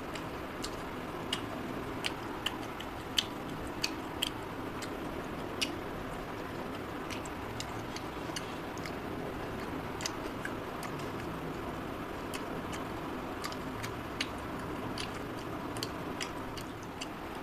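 A person chewing a mouthful of prawn close to the microphone, with wet mouth smacks and sharp clicks at irregular intervals, over a steady low background hiss.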